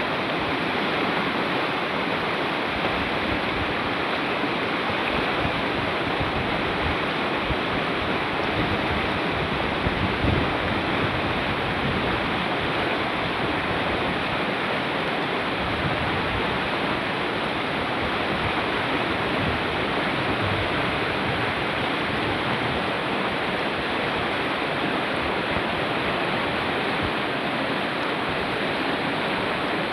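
Fast-flowing river or stream rushing steadily over rocks, a continuous dense roar of water. A brief louder surge about ten seconds in.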